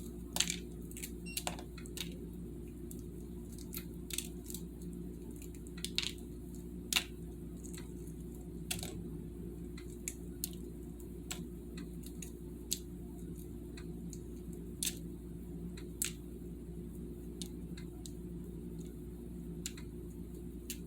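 Scattered light clicks and crackles from hard-boiled eggs being handled, likely their shells being cracked and peeled, over a steady low hum.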